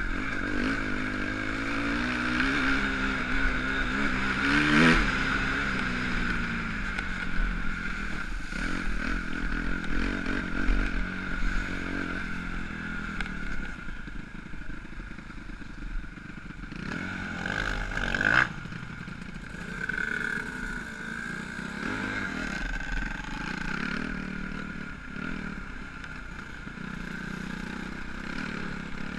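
Motocross bike engine revving up and down, the pitch climbing to a peak about five seconds in, then running unevenly at lower revs, with a brief loud burst about eighteen seconds in.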